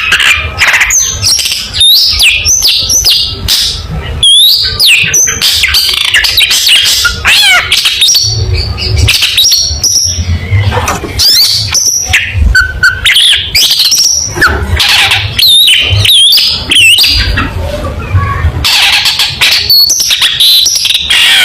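Long-tailed shrike (cendet) singing a loud, rapid, varied song of quick whistled glides and harsh, scratchy notes with only brief pauses.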